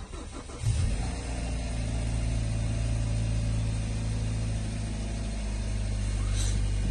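Hyundai Sonata 2.4 inline-four engine started, catching under a second in and settling into a steady idle. It runs clean, with none of its earlier knock to be heard after its solenoids were cleaned.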